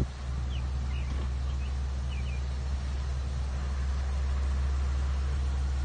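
A vehicle engine giving a steady low drone. A few faint, short high chirps sound over it in the first couple of seconds.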